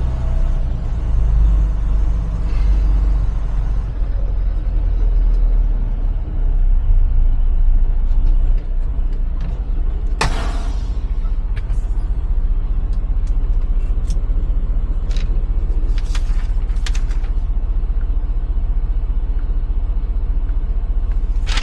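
Semi truck's diesel engine running with a steady low rumble. A brief sharp noise comes about ten seconds in, followed by a few lighter clicks.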